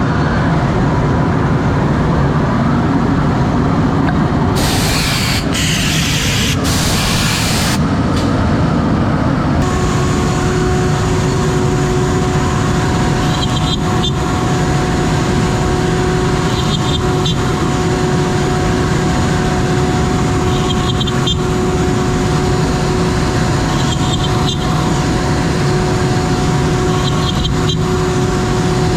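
CNC router milling beech boards, with a steady machine noise. A loud hiss comes in about three bursts between five and eight seconds in, and a steady whine sets in about ten seconds in and holds.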